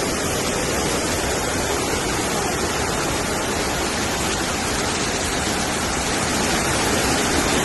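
Floodwater rushing past: a steady, even noise of flowing water.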